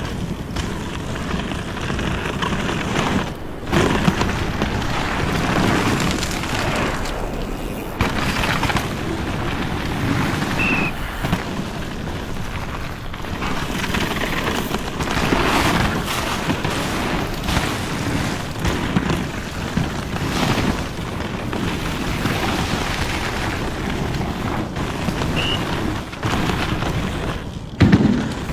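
Wind buffeting the microphone in rumbling gusts, a continuous noisy rush that rises and falls.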